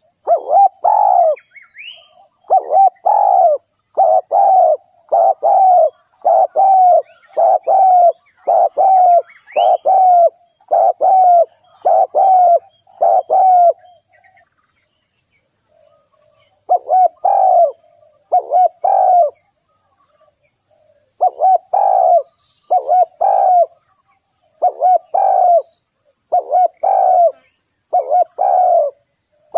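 Spotted dove cooing: a long run of loud, evenly repeated coo notes, about one every 0.7 seconds. A pause of about three seconds falls just after the middle, then the cooing starts again. Faint high chirps of small birds sound behind it.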